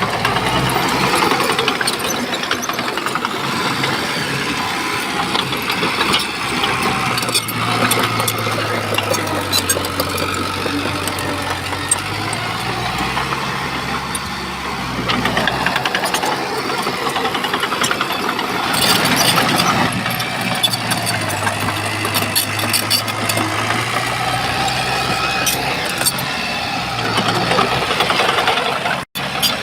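Shantui bulldozer's diesel engine running as it works, its pitch shifting up and down with load, with scattered knocks and clatter from the tracks and rock.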